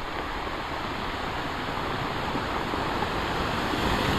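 Heavy storm surf rushing against the shore, growing steadily louder as a wave builds, with wind on the microphone.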